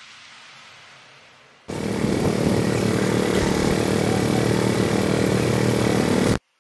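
An engine running steadily, cutting in abruptly about a second and a half in and cutting off abruptly near the end, after a faint fading hiss.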